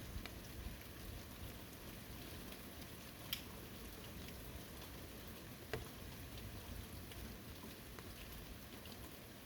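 Steady light rain falling on a forest, with scattered drips and two sharper drops striking close by, about three and a half and six seconds in.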